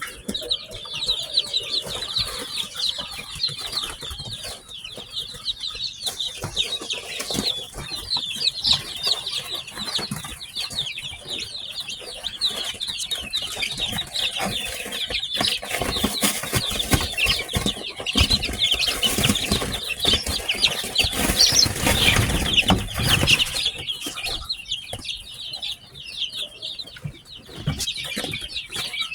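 A brood of newly hatched chicks peeping continuously in a dense chorus of rapid high chirps. Through the middle there is a louder stretch of rustling and knocking.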